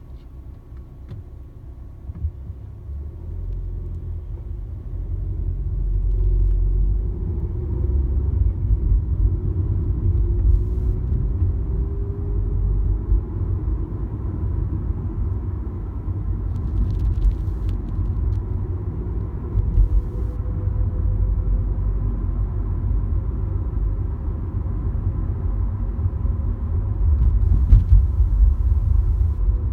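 Volkswagen Polo driving, with heavy road and engine rumble and a thin whine whose pitch slowly rises and later sinks as the car speeds up and slows down. It is an abnormal noise: a 'hyuun' whine on acceleration that turns into a warbling 'hyon hyon', and a 'wiin wiin' whine on deceleration that the owner says has grown louder.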